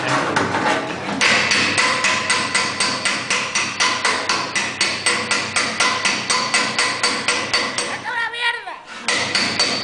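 A hammer rapidly and steadily beating the sheet steel of a VW Beetle rear fender, about four ringing metallic strikes a second, as in panel-beating the fender back into shape. The strikes pause briefly about eight seconds in, with a short wavering sound, then resume.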